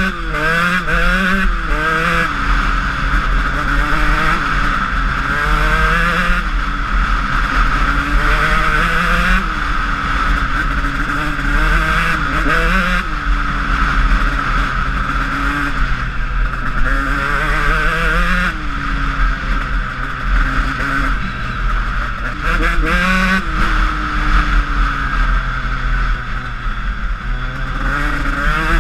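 Honda CR125 two-stroke single-cylinder dirt bike engine being ridden: it revs up and drops back again and again as the rider accelerates, shifts and rolls off. A steady low rumble runs underneath.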